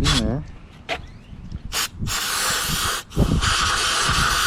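Aerosol can of throttle body cleaner spraying: a short burst, then two long sprays with a brief break between them.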